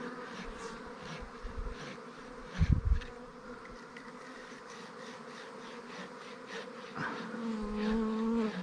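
Swarming honeybees buzzing in flight around the microphone, agitated. A dull low bump comes about a third of the way in, and near the end a single bee hovers close, its buzz loud and steady for a second or so.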